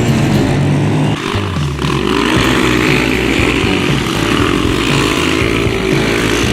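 Dirt bike engines running and revving, their pitch rising and falling, with an abrupt change in the sound about a second in.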